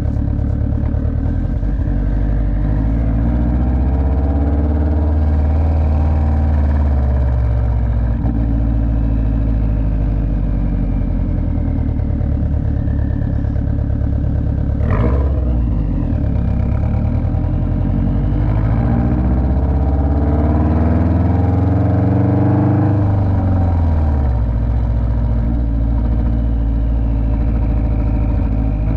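Turbocharged car engine running under load, rising in pitch as it accelerates and then dropping back, twice. There is a brief sharp noise about halfway through.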